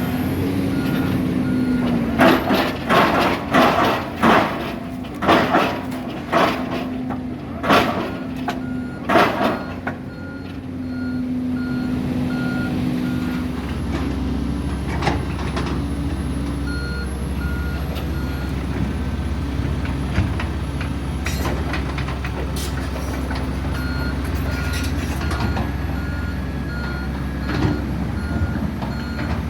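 Heavy construction machinery at work: a diesel engine running with a reversing alarm beeping on and off, and about ten loud knocks over the first ten seconds. The engine's rumble deepens about halfway through.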